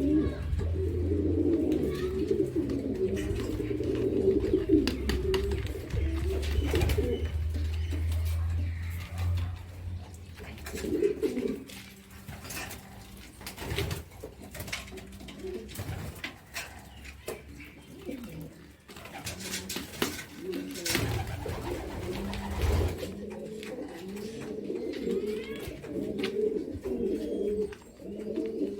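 Domestic pigeons cooing continuously in a loft, with scattered rustles and knocks of handling. A low hum runs under the first ten seconds and comes back briefly about three-quarters of the way through.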